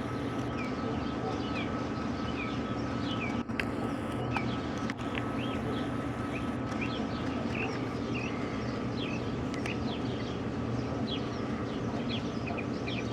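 Many small birds chirping: short high calls come thick and overlapping throughout. Under them runs a steady low hum, with a couple of sharp clicks a few seconds in.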